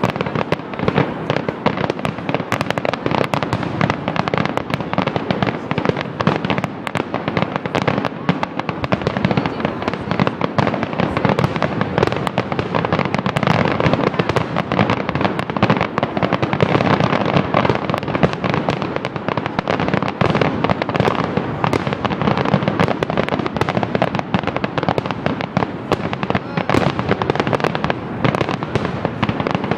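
Fireworks display going off: a dense, unbroken barrage of bangs and crackles that never pauses.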